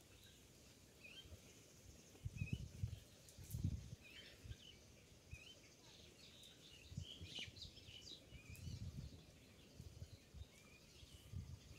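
Faint outdoor ambience: small birds give short chirping calls scattered throughout, and a few brief low muffled bumps of noise stand out above them, the loudest about two and a half and three and a half seconds in.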